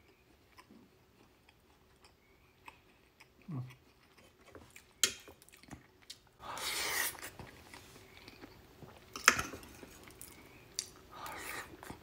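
Close-miked chewing and wet mouth sounds of a person eating a soft forkful of macaroni and cheese, with scattered sharp clicks and smacks and a couple of longer breathy bursts.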